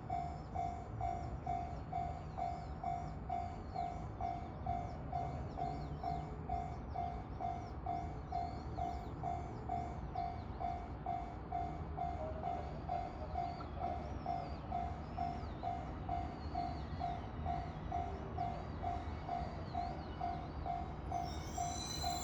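Railway level-crossing warning bell ringing steadily at about two and a half dings a second, over a low rumble that fits a train at the station.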